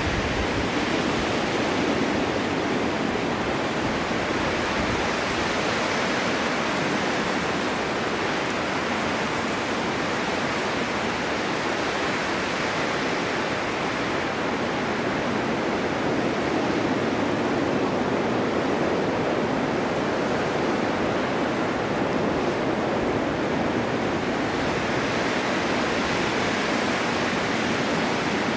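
Snowstorm wind blowing steadily, a dense rushing hiss that slowly swells and eases without gusting sharply.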